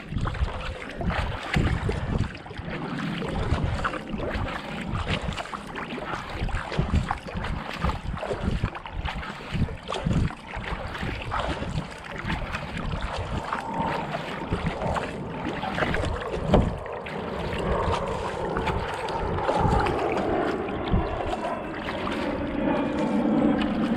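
Kayak paddle strokes at a steady racing pace of about 70 to 80 strokes a minute: the blades splash into the water on alternate sides, with wind rumbling on the camera microphone.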